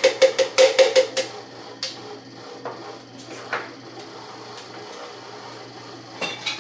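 A kitchen utensil tapped quickly against a dish, about seven ringing taps in the first second or so, then a few scattered knocks, as chopped chicken is knocked off into the sauce.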